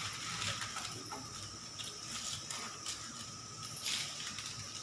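Faint, scattered taps and clicks of onions and a knife being handled, over a steady background hiss.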